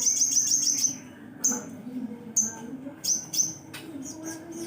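Songbird singing high-pitched: a fast trill of about ten chirps a second for roughly the first second, then single sharp chirps about once a second.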